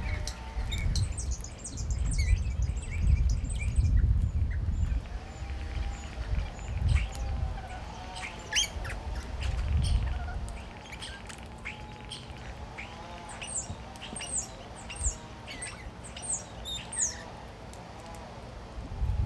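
Birds squawking and chirping: many short high chirps, and repeated calls that rise and fall in pitch through the second half. A low gusty rumble runs under the first half and dies away about halfway through.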